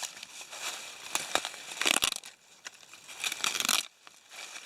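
Dry leaves and plant material rustling and crackling in irregular short bursts.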